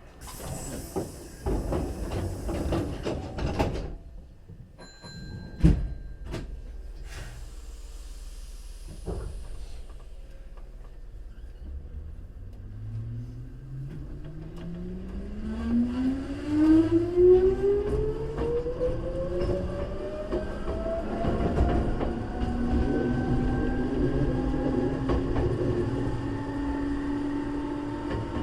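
Hankyu 3300-series electric train pulling away from a station: a hiss of air and a sharp knock early on, then the traction motors and gears set up a whine that rises steadily in pitch as the train picks up speed.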